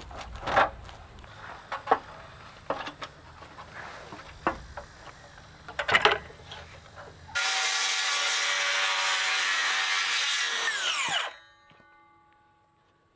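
A few scattered knocks of wood and tools being handled. Then, about seven seconds in, an electric power tool starts abruptly, runs loud and steady for about three seconds, and winds down with a falling whine before stopping.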